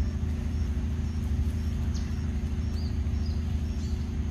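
A steady low hum throughout. Over it, a bird repeats a short high note about every half second and adds a few quick higher chirps in the second half.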